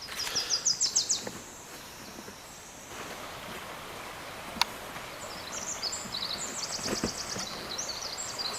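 Small songbird singing rapid high trills: a short run at the start, then a longer run of trills at shifting pitches from about five and a half seconds in, over faint forest background. One sharp click about halfway.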